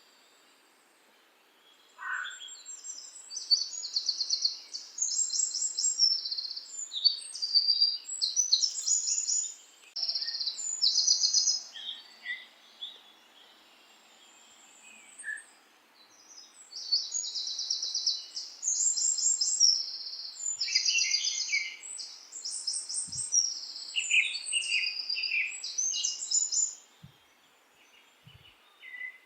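Songbirds singing: rapid, high-pitched trilled phrases overlapping one another in two long bouts, with quieter pauses between.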